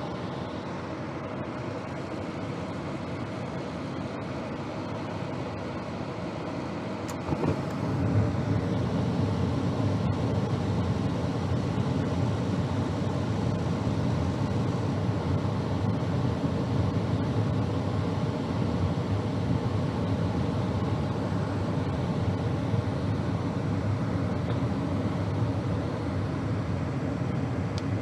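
Gas furnace running steadily with its inducer motor and burners lit. About seven seconds in there is a click, and the running sound turns louder and deeper and stays that way as the circulating blower comes on.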